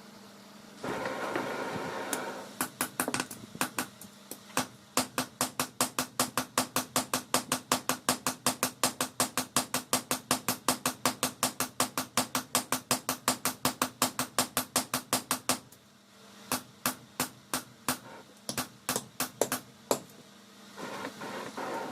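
Hammer blows on hot leaf-spring steel being forged into a dao blade. A few spaced strikes lead into a long run of fast, even blows, about four a second, which then give way to slower, scattered strikes. A steady low hum runs underneath.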